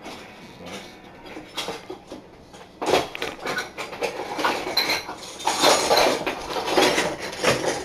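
Kitchen utensils and dishes clattering and clinking as they are handled: a few light clicks at first, then a busy run of knocks and clinks from about three seconds in.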